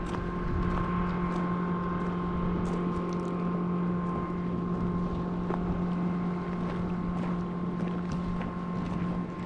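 A steady engine hum that holds one pitch throughout, with wind noise on the microphone and a few faint clicks.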